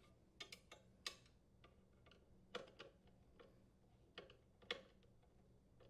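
Faint, irregular small clicks and taps from a saddle-type water shutoff valve's pipe-bracket mounting nuts and screws being tightened, two of them a little louder near the middle and toward the end.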